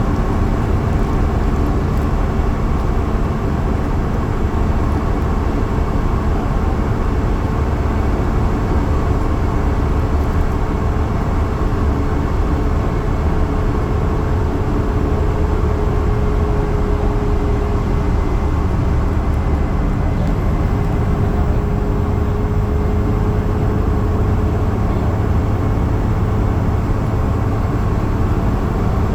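Yutong bus running at high speed: a steady engine drone with road and tyre rumble, without let-up.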